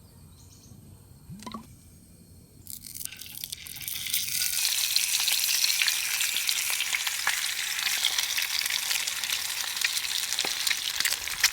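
Food sizzling and crackling in a hot frying pan, most likely the eggs and sausages of a camp breakfast. The sizzle starts about three seconds in, swells over the next second or two, then holds steady.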